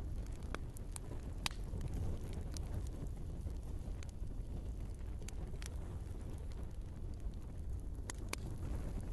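Wood fire burning in a fireplace: a steady low rumble of the flames with scattered sharp crackles and pops from the burning logs, a few of them louder, about a second and a half in and near the end.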